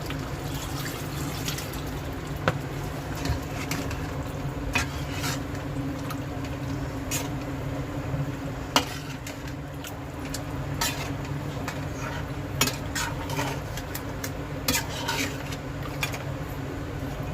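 Metal spoon clinking and scraping against a cooking pot as chicken gravy is stirred, with irregular clinks scattered throughout, over a steady low hum.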